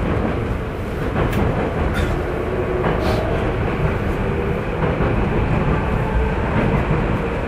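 Tokyu 9000 series electric train running at speed, heard from inside the passenger car: a steady rumble of wheels on rail, with a few sharp clicks about a second or two in.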